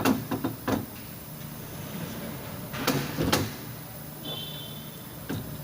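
A few sharp knocks and clunks in the first second, then two louder clunks about three seconds in, over a steady low hum. A brief high-pitched beep sounds about four seconds in.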